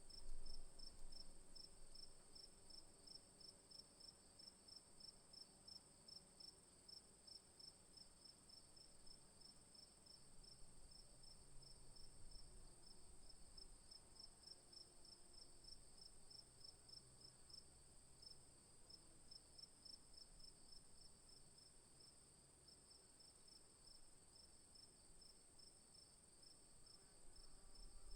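Faint, steady insect chorus: one high continuous whine and a second, lower chirp pulsing rapidly and evenly, several times a second.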